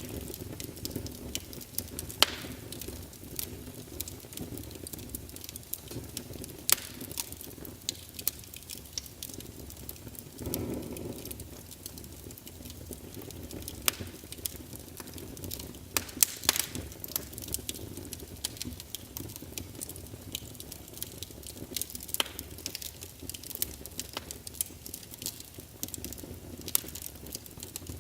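Wood fire burning in a fireplace, crackling with irregular sharp pops and snaps over a low, steady rush of flame, swelling briefly about ten seconds in.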